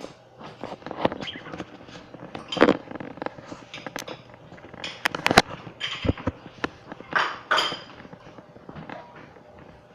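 Pet budgerigars chirping and chattering, with scattered sharp clicks and taps throughout and a short burst of louder chirps near the end.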